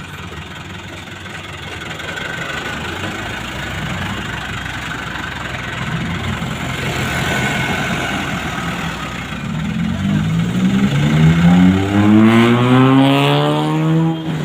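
Toyota Dyna dump truck engine, heavily loaded, running under load, then revving hard from about ten seconds in, its pitch climbing steeply and dipping briefly near the end.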